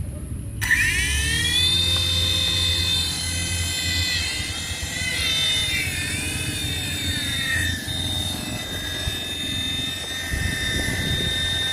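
Small electric motor of a radio-controlled model spinning up with a rising whine about half a second in, then running at a high, steady whine whose pitch wavers with the throttle and settles lower near the middle.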